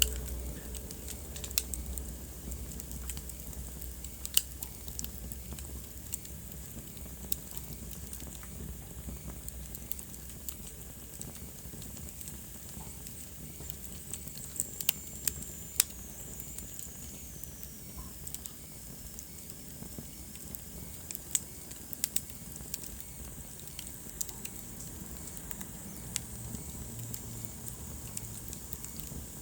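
Wood fire in a fireplace crackling steadily, with irregular sharp pops, a few much louder than the rest. About halfway through, a thin high whistle slowly falls in pitch.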